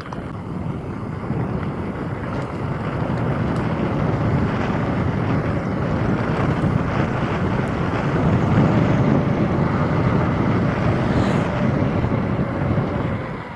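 Wind rushing over the microphone, a steady rumbling noise that grows louder through the middle and drops away at the end.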